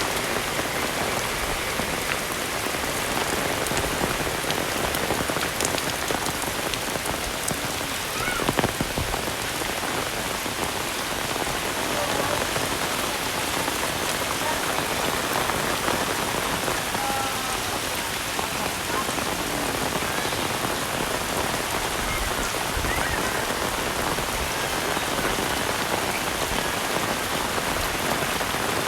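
Heavy rain falling steadily, a dense unbroken hiss of drops on surfaces. There is a single dull knock about eight seconds in.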